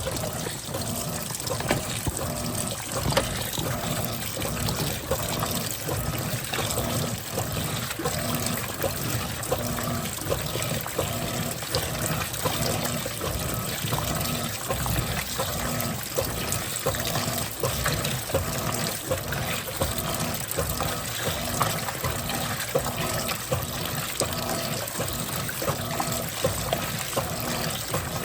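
Water running and splashing into the tub of an Electrolux Turbo Capacidade Premium 15 kg top-loading washing machine as it fills for its first rinse. The sound is steady, with small splashes throughout.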